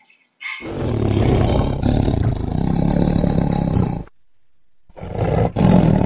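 Tiger roaring: one long, deep roar of about three and a half seconds, then a shorter one about five seconds in.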